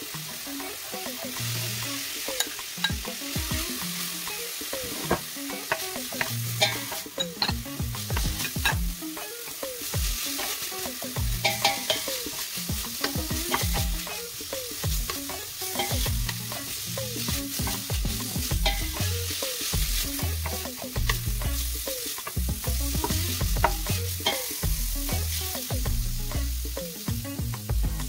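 Sliced chorizo and garlic frying in a stainless steel pan, sizzling steadily, while a wooden spoon stirs and scrapes them, with many small knocks against the pan.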